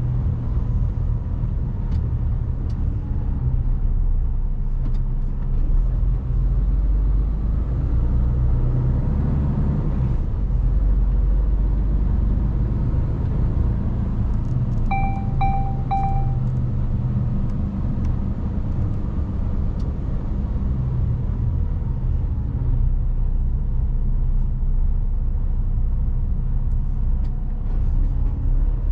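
Mercedes Actros truck's diesel engine and road noise heard from inside the cab, a steady low rumble. About halfway through, three short beeps sound in quick succession.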